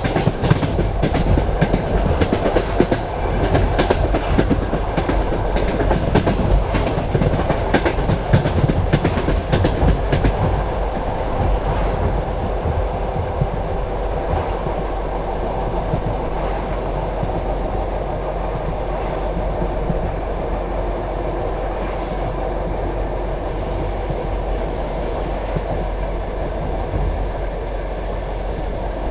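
Passenger train carriage rolling along the track: wheels clattering sharply over the rails for about the first twelve seconds, then settling into a steadier rolling rumble.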